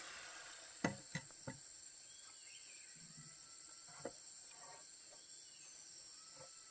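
Quiet outdoor ambience: a steady high insect hiss, broken by three sharp knocks close together about a second in and a single knock near four seconds.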